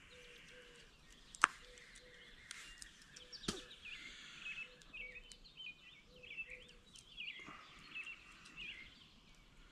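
Songbirds chirping and warbling outdoors, with a faint low note repeating evenly underneath. Two sharp clicks, the louder about a second and a half in and the other at three and a half seconds, come from packaging being handled.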